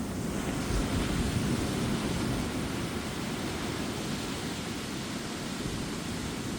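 Ocean surf breaking on a beach, a steady rushing wash of waves, slightly fuller in the first second or two, with some wind on the microphone.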